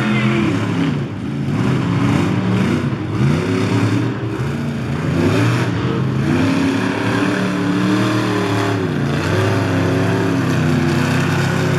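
Monster truck engine revving hard during a run, its pitch repeatedly rising and falling as the throttle is opened and backed off.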